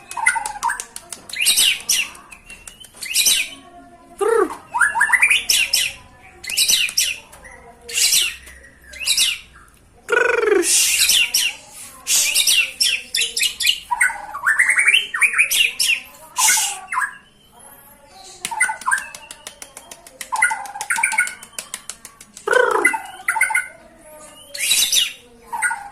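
White-rumped shama (murai batu) singing hard in a fired-up state: loud varied phrases every second or two, mixing rapid ticking rattles, high sweeping whistles and a few lower rising whistled notes.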